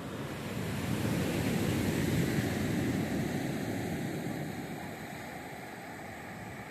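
Sea surf: a wave breaks and washes up the beach, swelling about a second in and fading away after about four seconds over the steady hiss of the sea.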